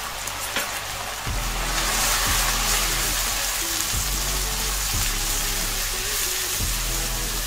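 Ginger-garlic paste and fried onions sizzling in hot mustard oil while a wooden spatula stirs them in a wok. The sizzle swells about a second in and then holds steady, with background music underneath.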